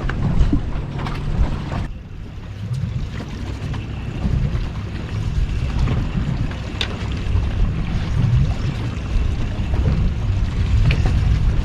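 Wind rumbling on the microphone aboard a small boat, with water lapping at the hull and a few small knocks.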